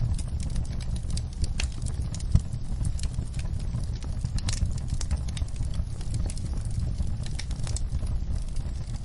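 Wood fire crackling and popping in a fireplace: irregular snaps over a low steady rumble of the flames, with one sharper pop about two seconds in.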